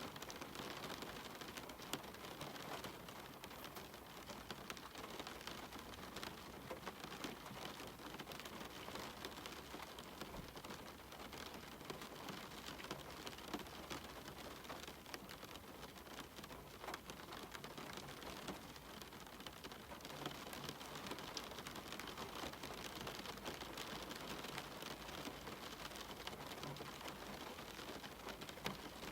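Steady rain falling, with many separate drops pattering and tapping on hard surfaces over an even hiss.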